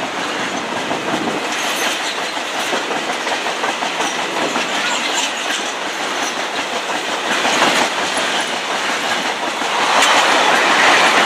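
A train passing through the station at speed: a steady rush of wheels running on the rails, growing louder near the end.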